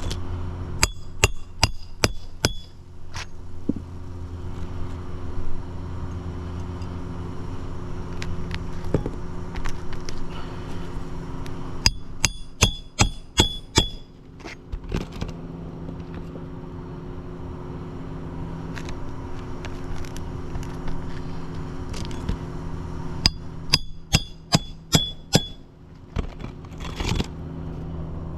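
Hammer blows on a shingle roof in three quick bursts of about six strikes each, roughly four a second, with a metallic ring, as shingles are worked loose or nailed during a shingle replacement. A steady low engine hum runs underneath.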